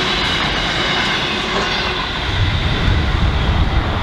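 Container freight train running away over the rails just after passing, a steady rolling rail noise whose higher part fades about halfway through. A low rumble grows stronger in the second half.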